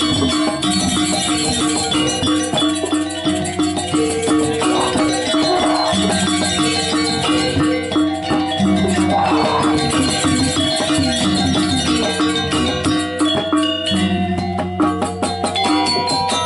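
Balinese gamelan music: metal-keyed percussion playing repeated pitched notes over a fast, dense high clatter.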